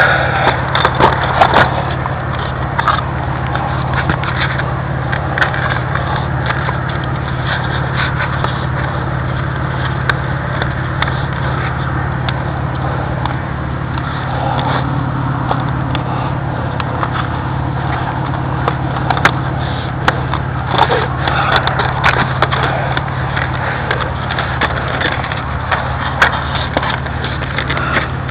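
Steady low vehicle hum with frequent sharp crackling and snapping clicks, as of driving over grass and crop stalks.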